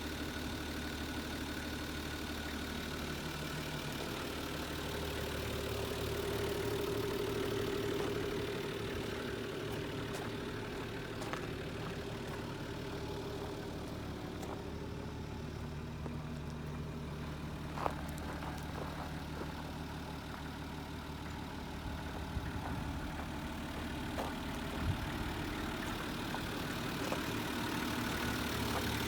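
Nissan Civilian bus's TD42 inline-six diesel engine idling steadily, with a few sharp clicks over the top.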